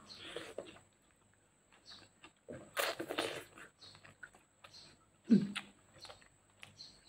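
Close-up eating sounds: a bite into a grilled chicken drumstick, then chewing with small wet clicks and smacks, a louder burst about three seconds in and a brief low sound about five seconds in.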